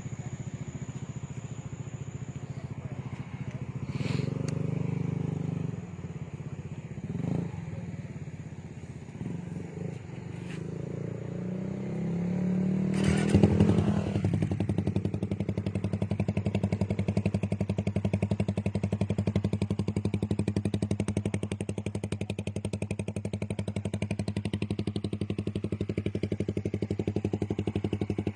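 Suzuki Raider 150 Fi motorcycle engine running through an aftermarket exhaust, idling with a few short throttle blips in the first half. Around the middle it rises to a brief peak, then settles into a steady, even idle.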